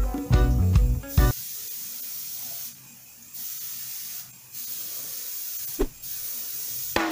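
Airbrush spraying paint with a steady high hiss, stopping briefly three times as the trigger is let off.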